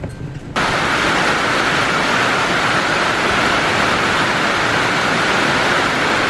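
Steady heavy rain, a loud, even hiss that starts suddenly about half a second in.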